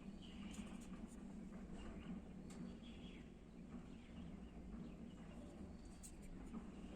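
Faint scattered bird chirps over a steady low hum, with a few light clicks.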